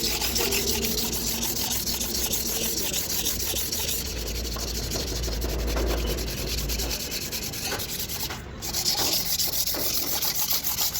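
Fast, continuous abrasive rubbing made of many rapid strokes, with a brief pause about eight and a half seconds in.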